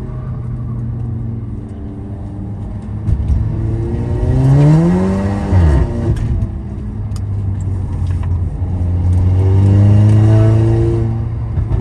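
Tuned stage 2+ Audi TT's engine under hard acceleration: its pitch climbs, drops sharply just before the halfway point as the revs fall away, then climbs again near the end.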